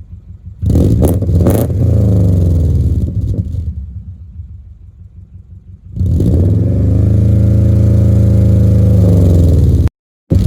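2004 Subaru Forester 2.5X flat-four engine and exhaust being revved. A short rev about half a second in falls back toward idle. A second rev about six seconds in is held steady for about three seconds, then drops off, and the sound cuts off abruptly near the end.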